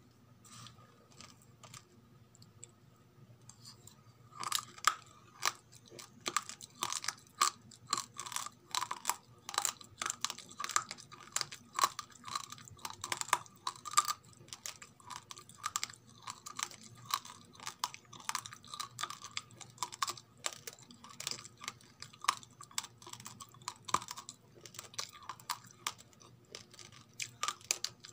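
Raw, uncooked rice grains being chewed, close to the microphone: a quick run of dry, sharp crunches, about two or three a second, starting about four seconds in and keeping on steadily.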